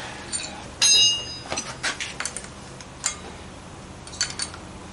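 A metal object clinks and rings briefly about a second in, followed by scattered small clicks and knocks of tools and parts being handled.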